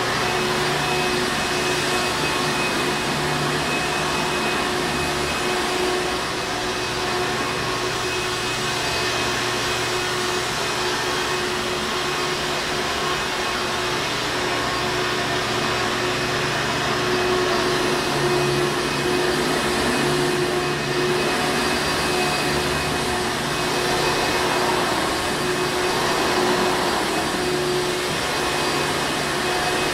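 Hoover Encore Supreme vacuum cleaner running steadily: a continuous motor-and-airflow noise with a steady hum, swelling slightly in loudness now and then.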